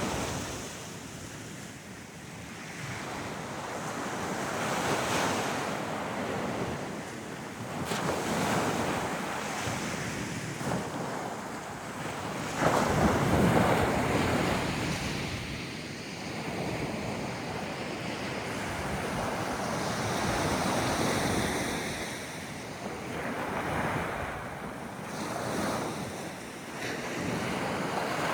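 Ocean surf: waves breaking and washing up the beach, swelling and fading every few seconds, with the loudest wave breaking about halfway through.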